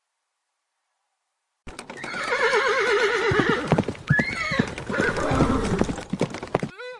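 Horse whinnying: one long quavering call starting about two seconds in, falling in pitch, followed by shorter calls, cutting off suddenly near the end.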